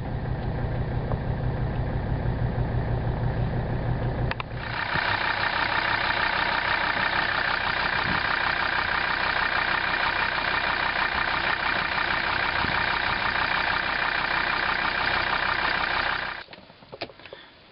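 Warm Mercedes-Benz 300D five-cylinder turbodiesel idling just after starting. About four seconds in, after a click, the sound turns louder and brighter with a steady diesel clatter, and it cuts off near the end.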